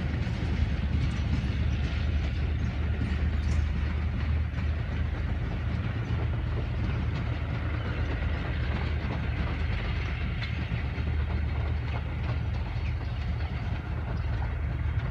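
Departing passenger train rolling away along the track: a steady rumble with wheel clatter over the rails, slowly fading as the coaches recede.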